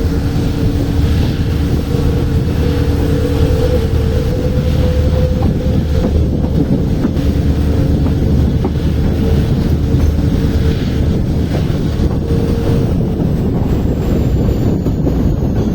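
WDP4D diesel locomotive, with its 16-cylinder EMD two-stroke engine, hauling a train: a loud steady low rumble with a droning hum in two steady tones, which fades out about 13 seconds in while the rumble carries on, with a few faint clicks.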